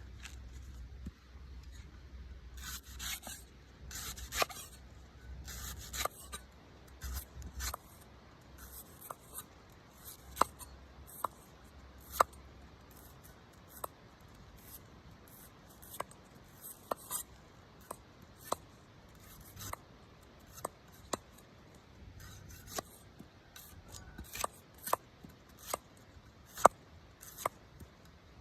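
Knife cutting and scraping the husk of a green coconut. There are rasping strokes through the first several seconds, then a run of sharp clicks at roughly one a second.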